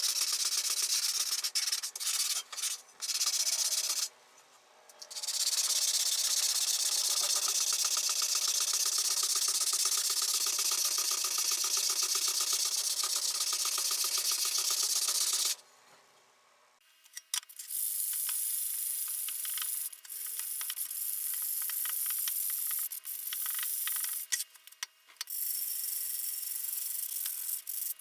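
Abrasive sanding, a steady scrubbing rub, in stretches cut short by brief silences about 4 and 16 seconds in. After the second break it turns more scratchy and stop-start, over a faint steady tone.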